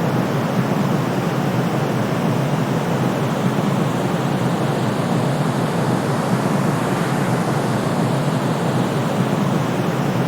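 Steady white noise for sleep: a constant, even rushing hiss, heaviest in the low end, with no changes or breaks.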